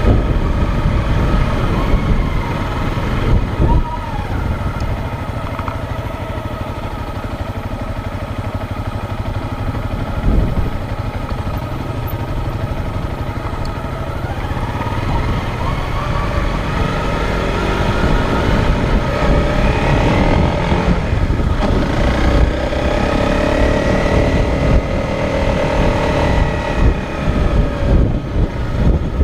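Motorcycle engine running under way, with heavy low wind rumble on the camera microphone. The engine note rises and falls several times, climbing in the second half.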